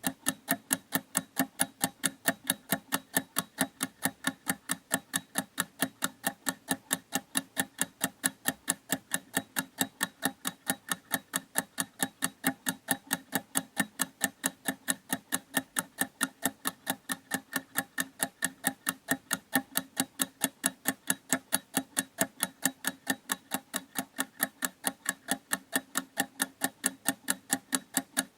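Clock ticking steadily, an even run of sharp ticks a few times a second.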